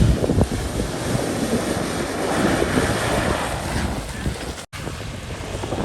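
Wind buffeting the phone's microphone over the noise of surf, with a four-wheel-drive vehicle running on the beach sand. The sound cuts out for an instant about four and a half seconds in.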